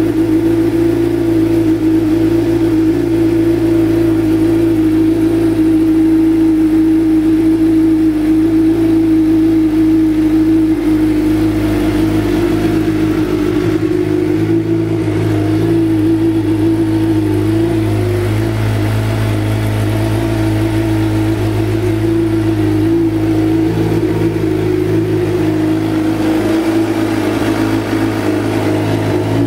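A 2011 Suzuki GSX-R 750's inline-four engine idles steadily just after a cold start. It runs through an M4 GP-style slip-on exhaust with the baffle removed and the catalytic converter still fitted.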